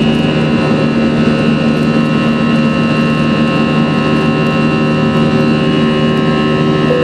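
Airbus A320 jet engines heard from inside the passenger cabin during the climb after takeoff: a loud, steady drone with several steady tones laid over a rushing noise.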